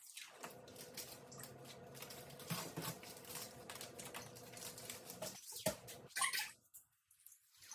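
Scattered light clicks, taps and rustles of containers and packages being handled and set down, over a faint steady hum.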